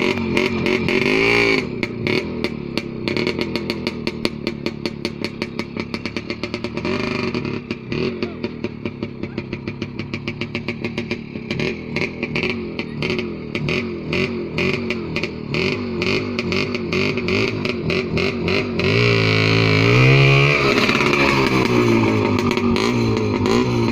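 Motorcycle engine running with a fast, even pulse, revved up and back down about nineteen seconds in.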